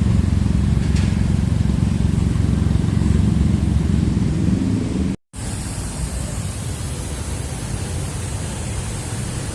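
Steady low rumble of a vehicle with a noisy hiss above it. It drops out briefly about five seconds in and comes back thinner and hissier.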